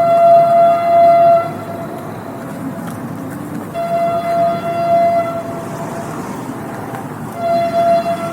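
Train horn sounding three steady, single-pitched blasts over the rumble of the moving train: a long blast, a second of similar length about four seconds in, and a shorter third near the end.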